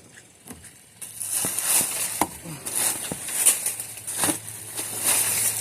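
Rubbish rustling and crinkling in a dumpster as it is rummaged through with a grabber tool, with scattered clicks and knocks, starting about a second in over a steady low hum.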